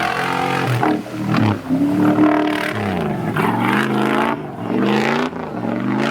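Off-road 4x4's engine revving, its pitch repeatedly rising and falling.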